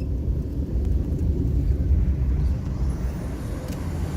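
Low, steady rumble of a moving vehicle: road and wind noise.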